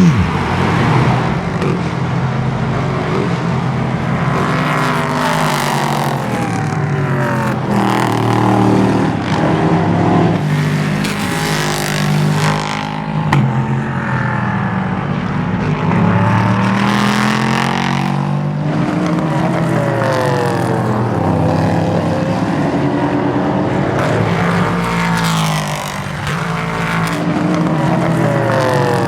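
Several racing cars at speed, their engines overlapping as they pass one after another, pitch climbing through the gears and dropping on each pass and downshift.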